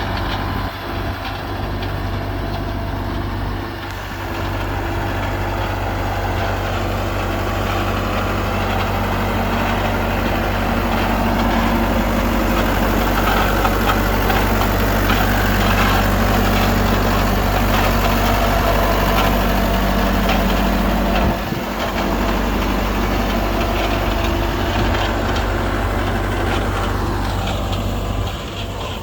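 Bobcat 853H skid steer loader's engine running steadily, a little louder through the middle stretch, with a brief drop in level about 21 seconds in.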